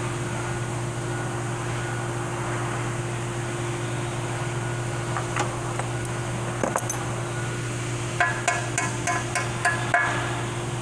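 Metal transmission parts clinking and tapping against each other, a few single clicks and then a quick run of ringing clinks in the last few seconds, over a steady background hum.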